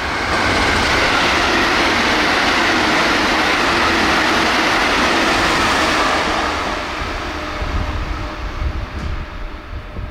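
JR Central 313 series electric multiple unit passing at high speed, about 115 km/h: a loud, even rush of wheels and air for about six seconds, then dying away into low, uneven rumbles.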